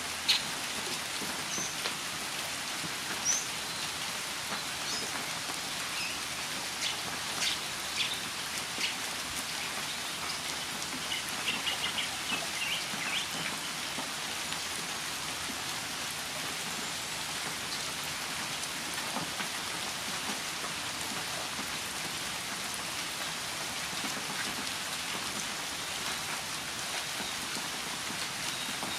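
Steady rain pattering on surfaces, with a few short, high bird notes and a quick run of notes in the first half.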